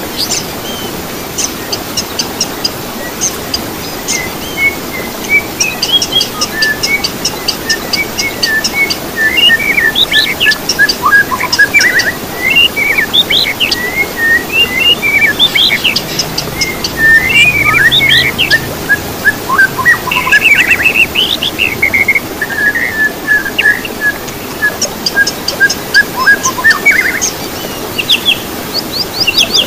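Songbirds singing continuously: a busy mix of quick chirp trains, trills and whistled notes, several songs overlapping, over a steady background hiss.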